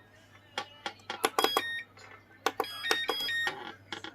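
Lebot G61-1 robotic vacuum cleaner sounding two short runs of electronic beep tones, stepping in pitch, about a second apart, as it signals an error.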